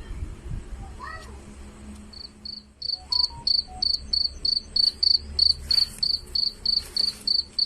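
Cricket chirping: a high, short chirp repeated evenly about three times a second, starting about two seconds in.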